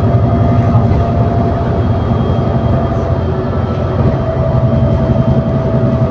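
ADL Enviro400 City double-decker bus with a Voith automatic gearbox heard from inside while under way: a steady low drivetrain rumble with thin whining tones held over it.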